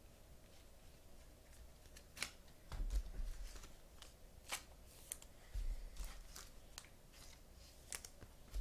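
Trading cards being handled on a table: a scattering of light clicks and flicks as cards are slid and set down, with a few soft low thumps.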